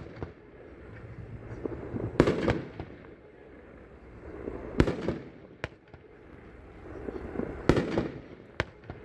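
A 500-gram consumer fireworks cake firing, its shells bursting in about five sharp reports spaced one to three seconds apart, each followed by a short rumble of echo.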